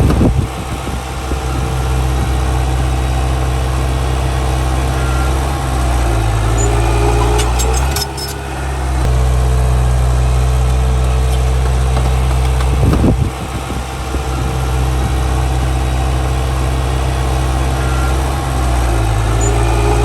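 Heavy diesel engine of a Komatsu D31P bulldozer running under changing load, its speed dropping and picking up again several times, with a couple of brief clanks along the way.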